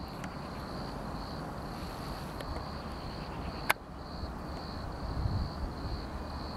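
Low rumble of an approaching locomotive-hauled passenger train, growing a little in the last couple of seconds, with crickets chirping steadily in a pulsing high-pitched trill. A single sharp click sounds about halfway through.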